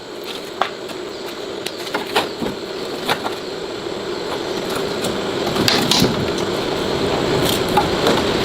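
A machine running steadily and slowly getting louder, with scattered clicks and knocks over it.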